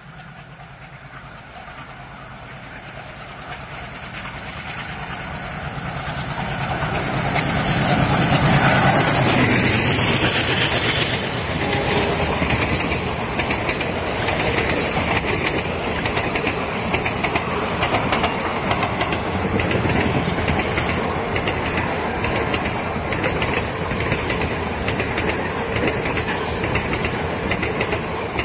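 Express train passing close by, headed by twin WDM-3D diesel locomotives. Their engines grow louder on the approach and peak about 8 to 10 seconds in. A long rake of coaches then rolls past with a steady rumble and clickety-clack over the rail joints.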